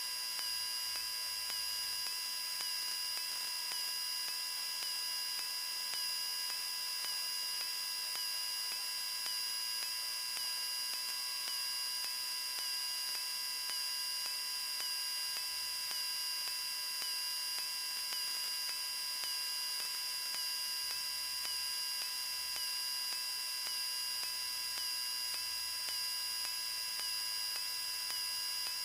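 Steady electrical hum and high whine with hiss on a cockpit intercom audio feed between radio calls, with a faint regular ticking; the engine itself is barely heard.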